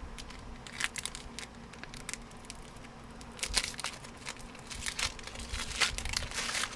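Trading cards being handled and flipped through, with the pack wrapper crinkling: a string of short, irregular rustles and flicks. Under them runs a faint steady hum from an air conditioner.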